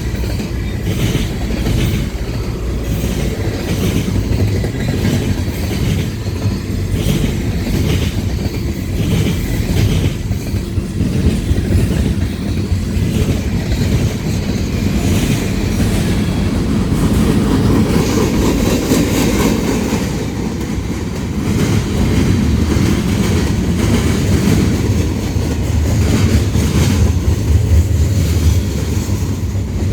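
CSX manifest freight train rolling past: a steady rumble with its wheels clicking over the rail joints. It grows louder for a few seconds a little past the middle.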